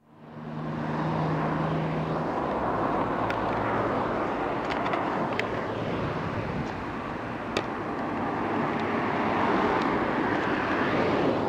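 A train running: a steady rumbling noise that swells up over the first second, with a few faint sharp clicks.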